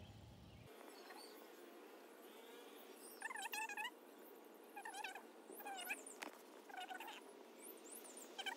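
Birds calling outdoors: one bird repeats short, pitched calls in groups starting about three seconds in, with fainter high chirps from other birds behind it.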